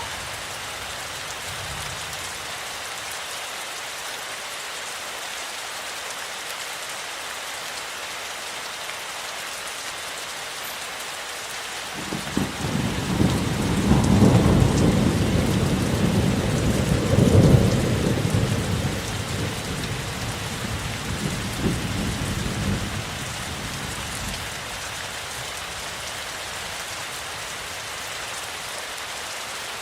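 Steady rainfall. About twelve seconds in, a long roll of thunder rumbles in, swells twice and dies away over roughly twelve seconds.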